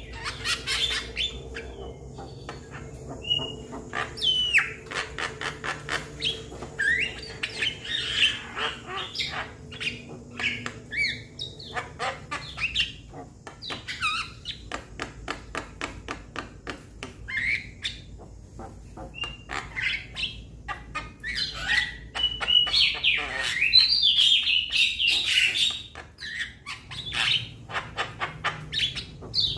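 Young Javan myna calling: a fast string of dry clicks mixed with harsh chatter and short whistled notes, busiest a little before the end.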